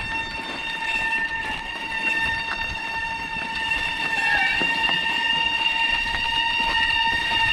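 Bicycle brakes held on through a rough downhill, squealing in one long steady high-pitched tone with a slight wobble in pitch about halfway, over the rumble of tyres on loose ground.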